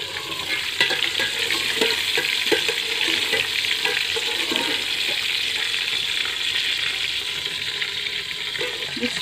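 Eggplant slices sizzling steadily in hot oil in an aluminium pot. In the first half, light knocks of a wire skimmer working in the pot break in as the fried pieces are lifted out.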